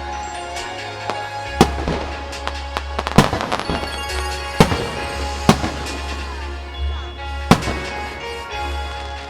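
Aerial firework shells bursting over music played through loudspeakers: about five loud bangs and many smaller pops between them.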